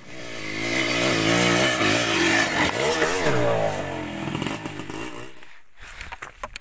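Dirt bike engine revving hard, its pitch rising and falling as the throttle is worked, building up over the first second and fading away about five seconds in.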